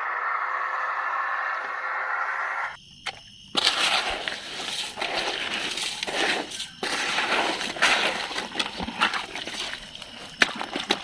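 Steady rushing noise that stops abruptly a little over two seconds in. Then plastic toy vehicles being handled and cleaned: irregular scraping, rustling and clattering with sharp clicks.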